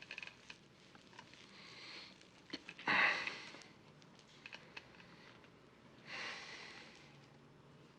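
A person's breathing: a sharp sniff about three seconds in and a longer, softer breath about six seconds in, with a few faint clicks over quiet room tone.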